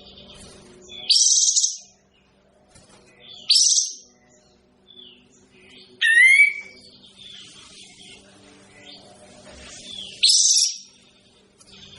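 Kapas tembak bird calling: four loud, short calls a few seconds apart, one of them a quick slurred note, with fainter chirps between them over a steady low hum.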